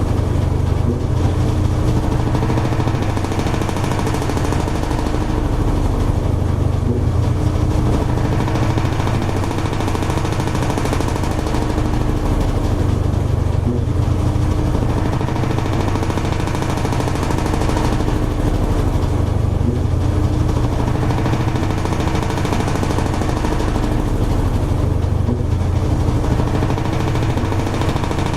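A Toshiba AW-42SEE4 fully automatic washing machine running steadily with a low motor hum and a steady tone. The sound swells and eases about every six seconds.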